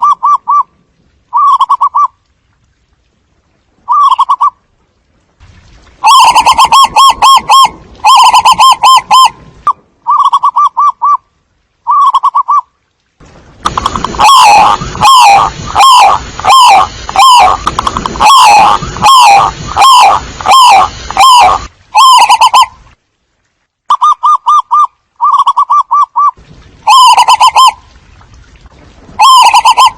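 Zebra doves calling in short, rapid staccato coos, repeated in bursts; about halfway through, many calls overlap into a dense run lasting several seconds before it thins out to single bursts again. It is a lure call meant to draw the flock in.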